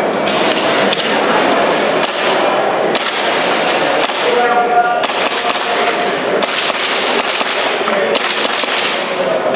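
Airsoft pistol firing a string of single shots, spaced roughly a second apart, in a hall with echo.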